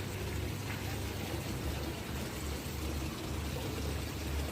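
Water running steadily, an even rushing noise with a low rumble underneath.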